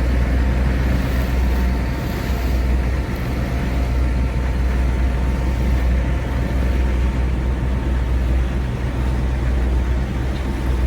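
A small boat's engine running steadily under way, with a constant low hum and an even rushing noise.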